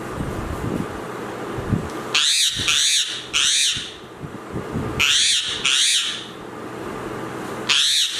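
Parrot giving loud, harsh calls in quick runs: three in a row about two seconds in, two more around five seconds, and another beginning near the end.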